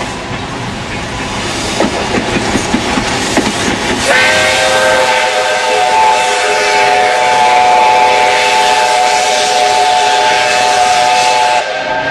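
Soviet L-class steam locomotive L-0022 blowing its steam whistle: a chord of several steady tones that starts sharply about four seconds in, is held for about seven seconds and cuts off abruptly. Before the whistle, the train rolling with hissing steam and wheel clatter.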